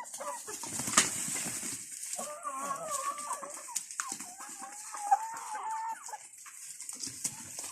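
Free-range heritage chickens clucking and calling, with two drawn-out wavering calls, one about two seconds in and a longer one about four seconds in.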